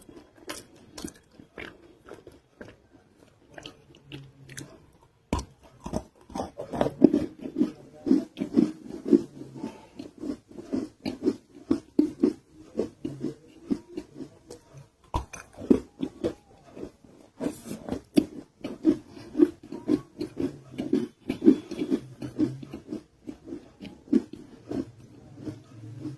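Close-miked crunchy biting and chewing of a non-roasted nakumatt (edible clay) roll. Two hard bites come about 5 and 15 seconds in, and each is followed by steady rhythmic chewing at about three to four chews a second, with scattered crisp crunches.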